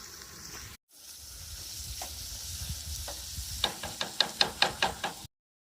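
Breakfast food sizzling in a frying pan, with a utensil scraping and tapping against the pan in a quick run of strokes near the end.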